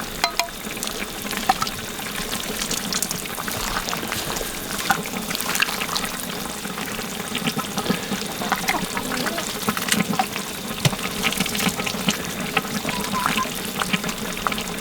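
Yukgaejang (spicy beef stew) in a cast-iron cauldron, steadily bubbling and sizzling while it is stirred and ladled out, with small splashes, pours and utensil clinks scattered throughout.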